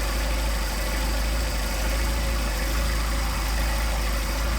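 Mercedes-Benz 190SL four-cylinder engine idling steadily on its twin Solex carburetors, a low, even idle while the carburetors are being synchronized and the idle speed set.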